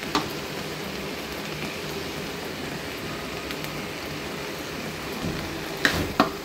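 Shepu (dill-leaf) bhaji with dal sizzling steadily in a kadhai, an even fine hiss, with a wooden spatula knocking on the pan a couple of times near the end.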